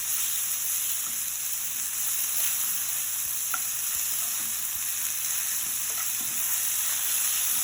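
Sliced marinated chicken breast sizzling steadily in oil in a very hot pan as it browns, with a few faint pops.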